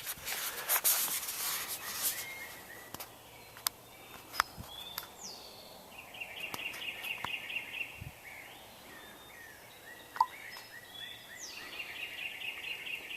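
A songbird singing twice, each phrase a high falling whistle followed by a rapid trill, over outdoor ambience. Rustling and clicks in the first couple of seconds, and one sharp click about ten seconds in.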